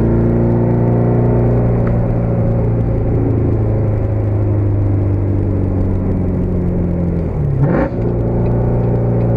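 Corvette C7 Z06's supercharged 6.2-litre LT4 V8, tuned and breathing through a Capristo exhaust, running at a steady high-speed cruise with a deep, steady rumble. About three-quarters of the way through the engine note dips briefly, then picks up again with a short crackle from the exhaust.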